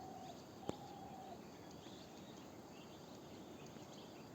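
Faint outdoor morning ambience with scattered distant bird chirps and two short, steady low calls near the start. A single sharp click sounds just under a second in.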